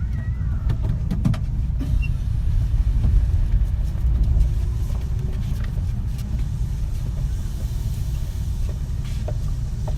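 Interior running noise of a Kintetsu 3220 series electric train under way: a steady low rumble of wheels on rails, with a few scattered clicks.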